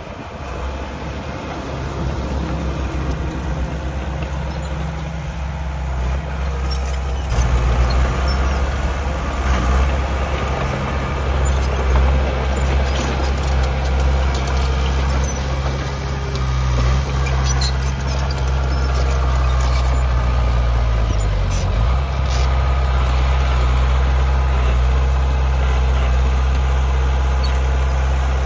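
Heavy diesel engine of earthmoving machinery running and working, growing louder over the first several seconds, with scattered metallic clanks and squeaks over it. About twenty seconds in, the engine note dips briefly and then recovers.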